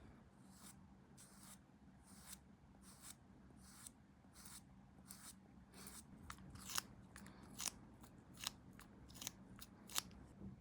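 Small hand cutting tool snipping, faint and regular, about one snip every three-quarters of a second, the cuts turning sharper and louder after about six seconds.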